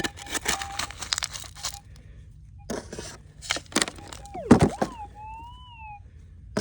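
Gravelly dirt scraped and crunched in repeated short strokes, with a Minelab GPX 6000 metal detector's speaker giving wavering target tones that swoop and rise and fall in pitch in the second half.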